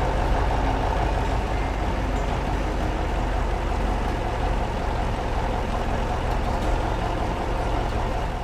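A heavy vehicle's engine running steadily, a continuous low rumble with a steady hum over it.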